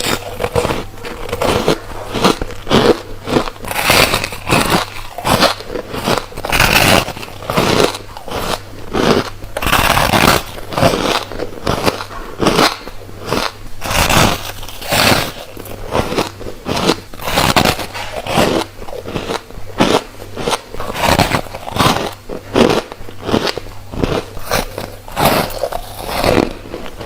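Close-up bites and chewing of refrozen freezer frost: repeated squeaky, crisp crunches, one or two a second, with no break.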